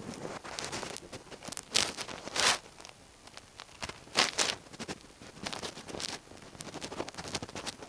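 Irregular rustling and scraping from materials being handled and pulled apart while dismantling a beetle breeder, with louder scrapes about two seconds in, again around two and a half seconds, and near four seconds.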